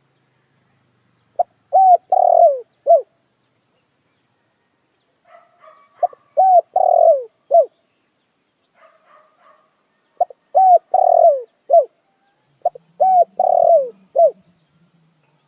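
Spotted dove cooing: four phrases, each a few short notes around one longer drawn-out note, all falling in pitch, repeated every few seconds. Faint twittering comes between the phrases.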